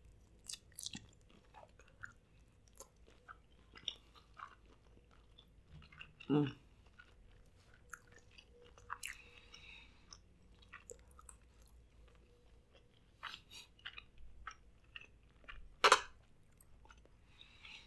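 Close-up eating sounds: a person chewing Cajun shrimp and rice, with small wet clicks and smacks of the mouth. There is a brief louder low sound a little past six seconds, and a sharp click at about sixteen seconds.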